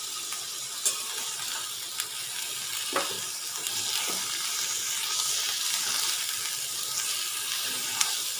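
Boiled banana stem and chickpeas sizzling in hot oil in a wok as a spatula stirs them, with a few sharp clicks of the spatula against the pan.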